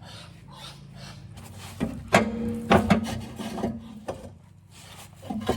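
Exhaust pipe sections being handled: a soft rasping a few times a second, then several metal clanks with a ringing note, and a couple of lighter knocks near the end.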